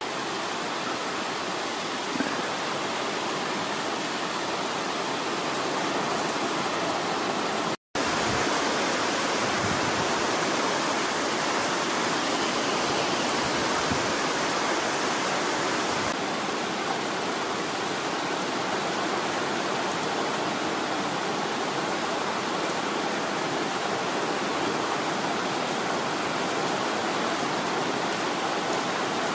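Steady hiss of rain falling in a garden, with a brief break in the sound about eight seconds in.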